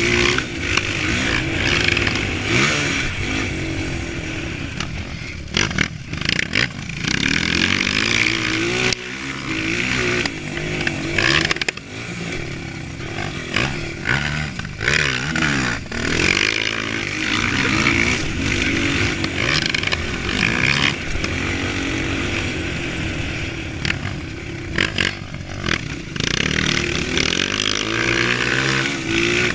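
Honda CRF230 dirt bike's single-cylinder four-stroke engine revving hard and easing off over and over. Its pitch climbs and drops with throttle and gear changes, with sudden dips where the throttle shuts.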